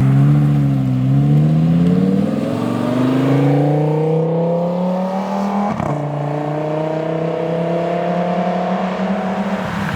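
A car's engine accelerating hard, its pitch climbing for about five seconds, then an upshift about six seconds in and a slower climb in the next gear.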